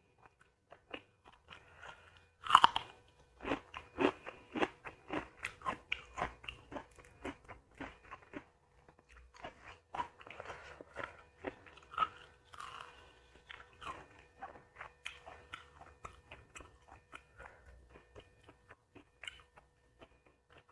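Close-miked eating: a person biting and chewing crunchy food, with a dense, irregular run of sharp crunches and mouth sounds. The loudest crunch comes about two and a half seconds in.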